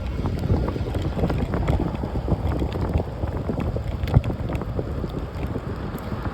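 Wind buffeting the microphone: a steady low rumble with scattered small clicks and rattles.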